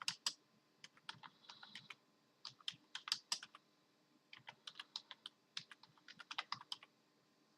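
Computer keyboard being typed on: quick runs of key clicks in about five bursts, with short pauses between them.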